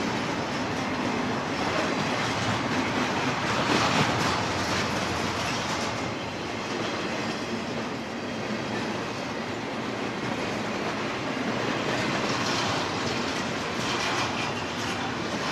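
Double-stack intermodal freight train's well cars rolling past: a steady rumble of steel wheels on the rails.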